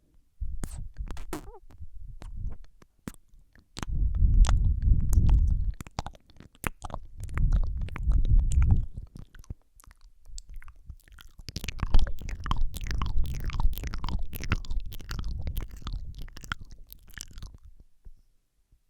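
Close-miked ASMR mouth sounds into a Rode microphone: rapid wet clicks, smacks and licking noises, with several stretches of low rumbling from the mouth right against the microphone. The sounds stop shortly before the end.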